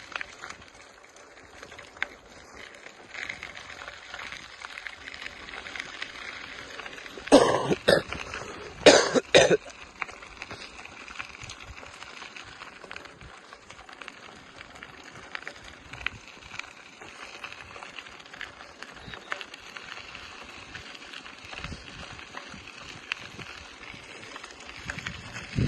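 Quiet outdoor background hiss with faint scattered clicks, broken about seven seconds in by two loud coughs, each a quick double cough, a second or so apart.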